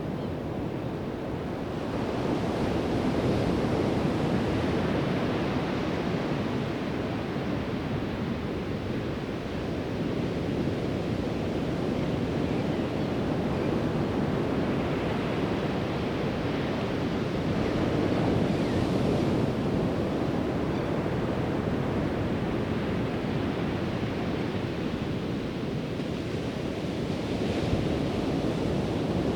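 Ocean surf breaking and washing up a sandy beach in a continuous wash, swelling and easing every several seconds, with some wind rumbling on the microphone.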